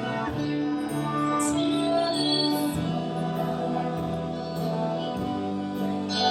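A live band playing, with voices singing long held notes over the instruments.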